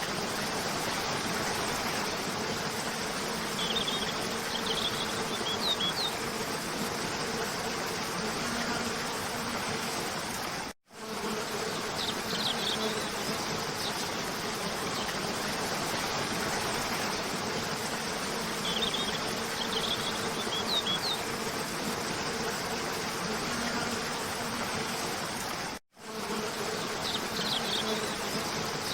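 Cascading waterfall rushing steadily under a low buzz, with short bird chirps a few times. The sound cuts out completely for an instant twice, about eleven and twenty-six seconds in.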